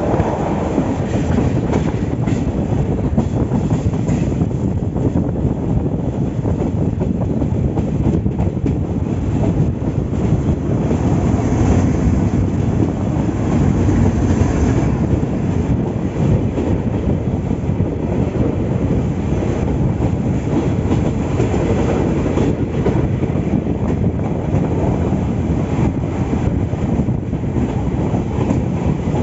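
Vasco da Gama–Kulem passenger train running along the track: steady wheel-and-rail running noise with a clickety-clack from the rails, continuing without a break.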